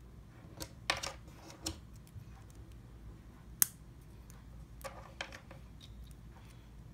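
Plastic LEGO pieces clicking and clattering as they are handled and pressed together: scattered small clicks and short rattles, with one sharp snap about three and a half seconds in.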